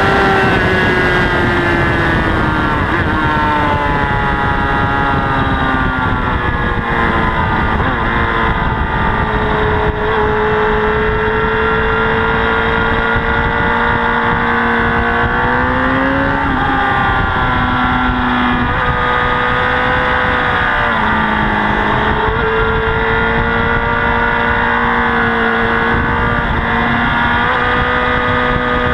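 Honda CBR1000RR superbike's inline-four engine running hard on track, its pitch rising and falling with the throttle, with several quick drops and steps at gear changes in the second half. Heavy wind noise over the bike-mounted camera.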